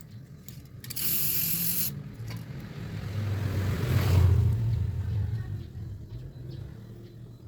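A short hiss lasting almost a second, about a second in. Then a passing motor vehicle, its engine hum and rush swelling to a peak mid-way and fading away.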